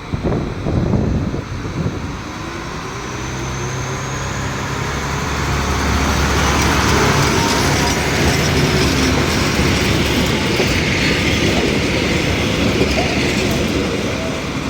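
A train running past on the tracks. A loud rumble comes in the first two seconds, then the train noise builds over several seconds with a steady low hum, stays loud through the middle and eases slightly near the end.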